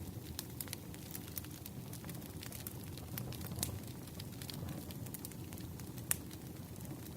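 Campfire burning with a low steady rumble and irregular sharp crackles and pops of the burning wood, one louder pop about six seconds in.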